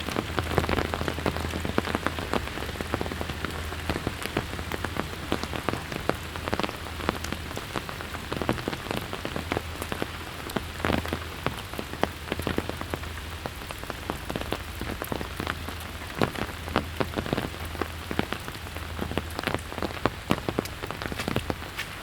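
Steady rain falling: an even hiss of rain with many close, sharp raindrop taps scattered through it.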